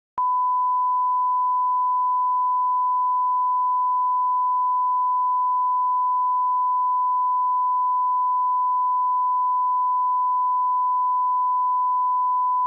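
Steady 1 kHz sine-wave line-up test tone at −18 dB reference level, held at one constant pitch and level.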